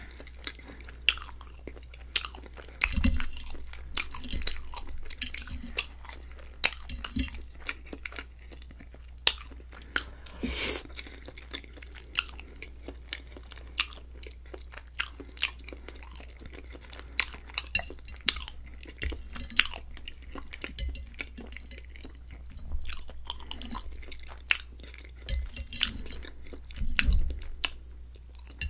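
Close-miked chewing of creamy chicken and shrimp Alfredo pasta, with a steady run of short, sharp clicks and a few louder bursts.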